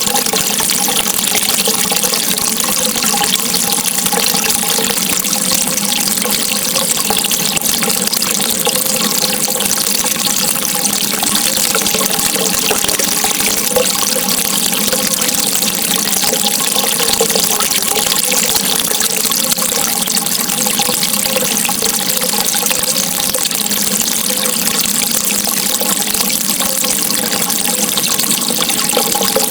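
Steady running water: an even, unbroken rush with a faint gurgling undertone.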